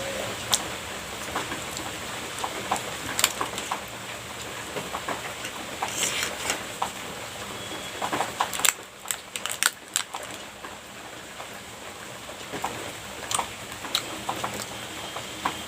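Heavy rain falling steadily, with scattered sharp clicks and taps over it; the rain's hiss dips a little about halfway through.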